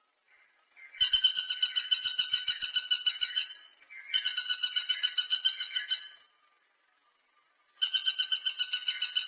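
Woodpecker calling: runs of rapid, evenly repeated high notes, about eight a second, each run lasting two to three seconds. There are three runs, with short pauses between them, and the third starts near the end.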